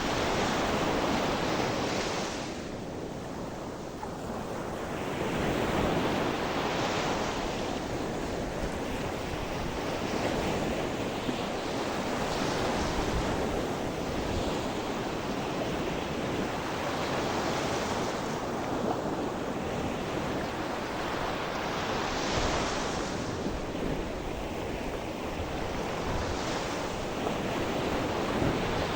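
Sea waves breaking on a shore, a continuous surf wash that swells every few seconds as each wave comes in, with some wind on the microphone.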